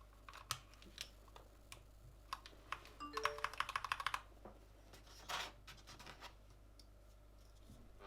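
Typing on a Gamakay LK67 mechanical keyboard with Gateron red linear switches: scattered single keystrokes, then a quick run of about ten keystrokes midway. A few short beeps rising in pitch come at the start of the run.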